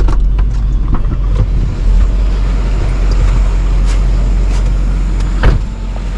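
Vehicle engine running with a steady heavy low rumble, with a few sharp knocks; the loudest knock comes about five and a half seconds in.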